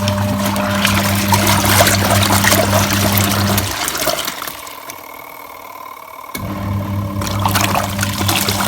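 Motor of a THANKO small twin-tub washing machine humming as it churns water in the tub. The motor stops a little under four seconds in, leaving only faint water sounds, then starts again about two and a half seconds later.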